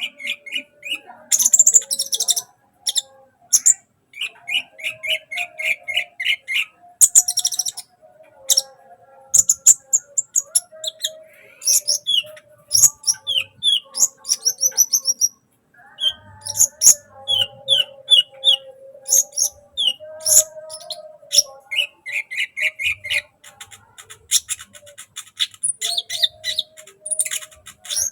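Sunbird (kolibri) singing a fast, varied chatter of high chirps and quick trills of repeated notes, broken by short pauses.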